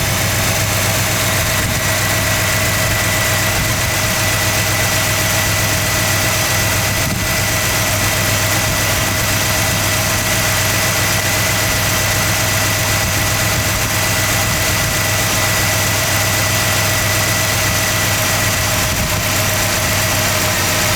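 1966 Oldsmobile 98's V8 engine idling steadily, with a thin high whine held alongside the engine note.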